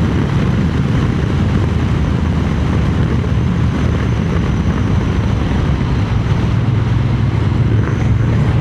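Triumph Speed Twin 900's parallel-twin engine running steadily while the motorcycle cruises along, mixed with wind noise on the microphone from blustery weather.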